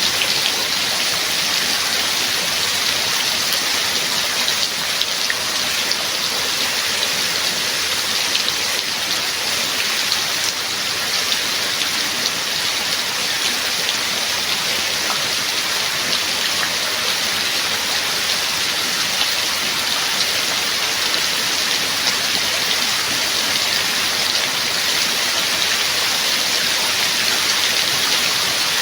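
Steady rain: a dense, even hiss of falling rain with faint individual drop hits scattered through it.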